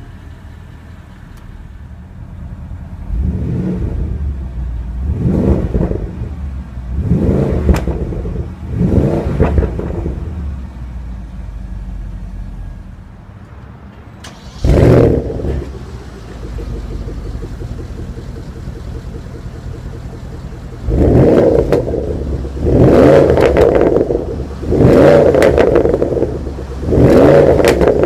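2015 Porsche Panamera Turbo's 4.8-litre twin-turbo V8 idling and being revved: four quick blips about two seconds apart, a single sharp blip in the middle, then four more blips near the end, dropping back to idle between them.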